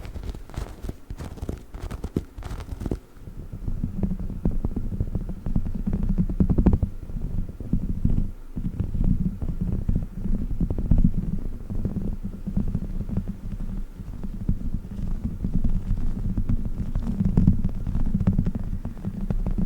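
Dog's chicken toy handled close to the microphone: crisp crackles for the first few seconds, then muffled low rubbing and squishing with scattered clicks.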